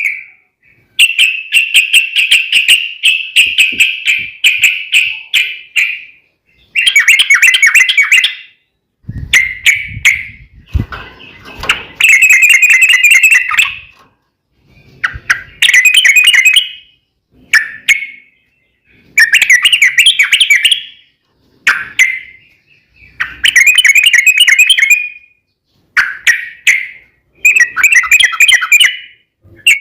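Yellow-vented bulbul (trucukan) singing loud, rapid, chattering phrases of one to three seconds each, repeated with short pauses between them. This is the bird's fast, rolling 'ropel' song. A brief low rumble sounds about ten seconds in.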